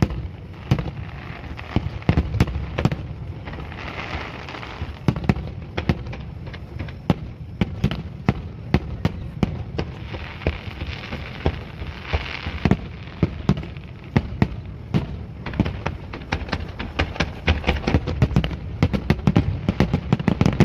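Aerial fireworks shells bursting in quick succession, a dense run of booms and sharp bangs. There are stretches of fizzing crackle from crackling-star shells about four seconds in and again around ten to twelve seconds.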